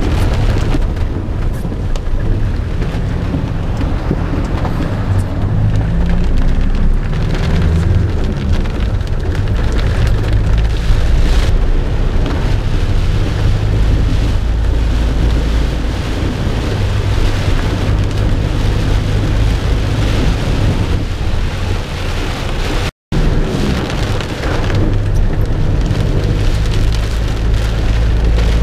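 Heavy thunderstorm downpour: a dense, steady rush of rain with a deep rumble underneath. The sound cuts out for an instant near the end.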